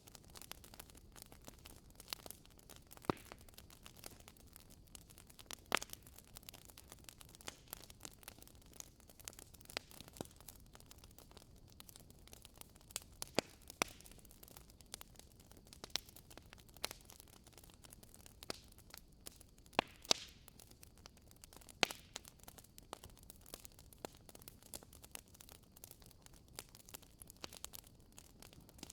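Wood bonfire crackling: irregular sharp pops and snaps, a few of them much louder, over a soft steady hiss.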